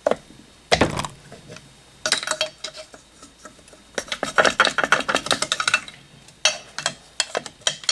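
Metal tools and engine parts clinking and clanking: a heavy clank just under a second in, then several runs of rapid metallic clicking.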